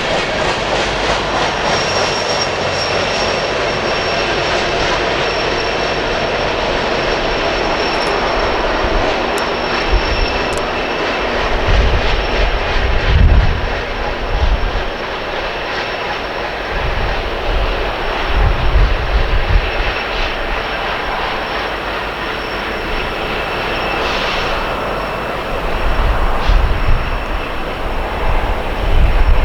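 Rear distributed-power diesel locomotive of a coal train passing and drawing away, a steady engine drone with a thin high whine over it. Low rumbling swells come and go through it, strongest about halfway through and near the end.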